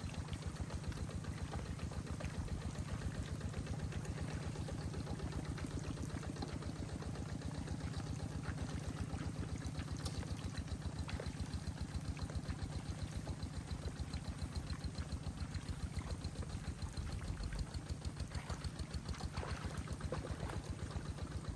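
An engine running steadily with a fast, even pulse and a low hum.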